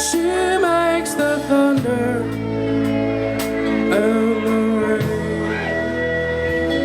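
Live rock band playing: held guitar chords and bass under a bending, wavering lead melody.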